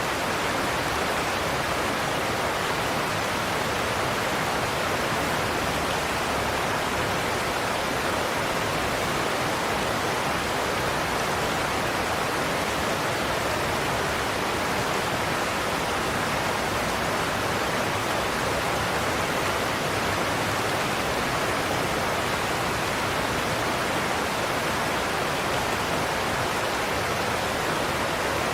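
Godafoss waterfall: a large cascade of water pouring over a cliff, a steady even rush of falling water with no change throughout.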